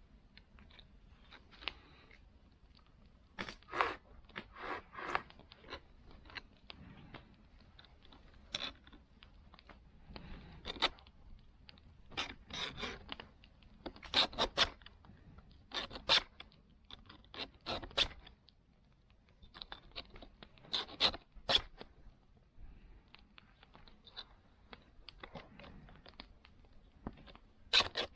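Hand work on a saw: irregular short scraping and rasping strokes, some clustered and some louder than others.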